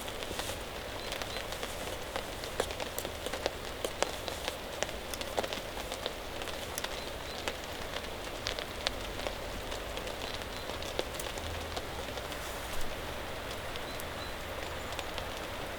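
Steady rain falling, with scattered louder drops ticking sharply close by.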